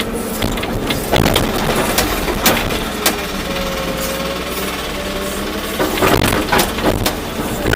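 Volvo EC240B excavator running with a steady diesel drone, broken by repeated knocks and clanks from the machine at work, most of them bunched together about six seconds in.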